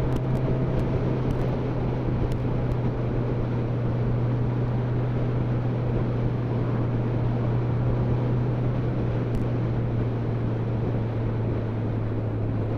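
Motorcycle engine running at a steady cruising speed: a constant low drone under a rush of wind and road noise.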